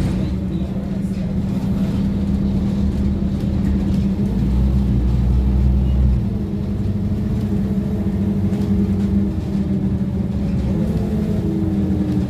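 Scania OmniCity double-decker bus heard from on board, its engine and drivetrain running steadily with a low rumble. A deeper rumble swells for a couple of seconds in the middle, and a rising whine comes in near the end as the bus picks up speed.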